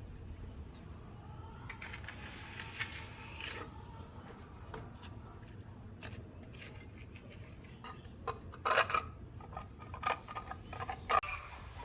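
Scattered scraping and rubbing with small sharp clicks, as of hard objects being handled, with a denser run of clicks and knocks near the end.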